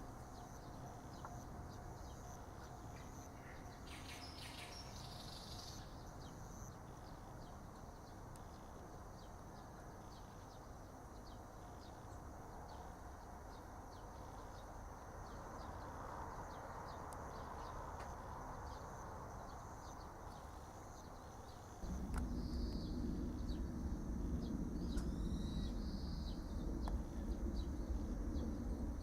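Outdoor countryside ambience: a steady high insect drone with many quick ticks, and a few short bird calls. About three quarters of the way through, a low rumble sets in and the sound gets louder.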